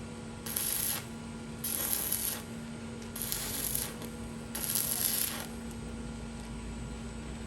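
Four rhythmic scraping strokes, each under a second and about a second and a half apart, over a faint steady hum.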